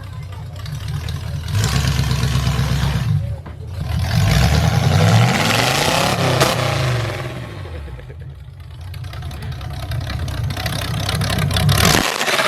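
Car engine running and revved twice, the second rev rising and falling in pitch, then settling back to idle before it is switched off near the end.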